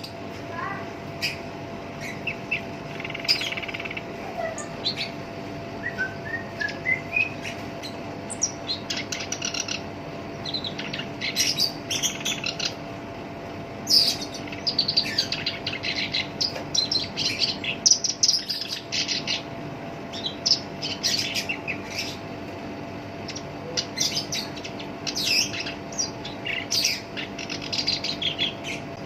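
Black-browed reed warbler singing a rough, harsh song of rapid chattering phrases made of short scratchy notes, broken by brief pauses. A faint steady hum runs underneath.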